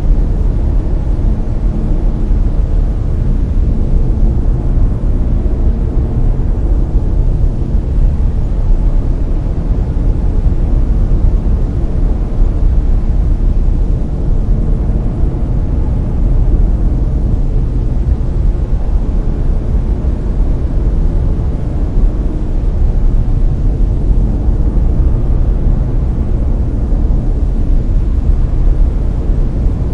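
Steady brown noise: a deep, even rumble of random noise, heaviest in the bass and fading toward the treble, with no changes or events.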